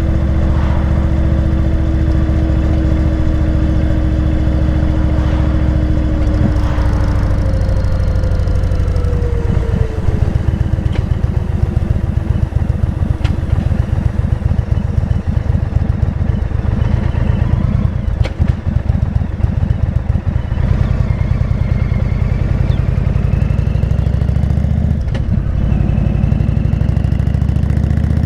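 Motorcycle engine running while riding. A steady drone drops in pitch about a quarter of the way in as the bike slows, then runs as a rough low pulse, and rises again near the end as it accelerates.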